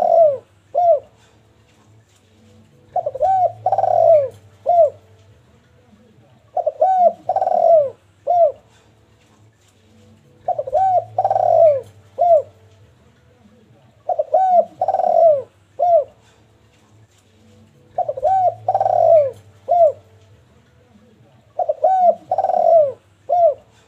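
Spotted dove (derkuku) cooing in full song, giving the same phrase of several short arching coos six times, about every four seconds. A low steady hum lies underneath.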